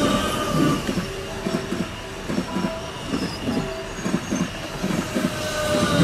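Red Rhaetian Railway electric multiple unit passing close by, its wheels thumping rhythmically over the rail joints, several beats a second, over a steady whine.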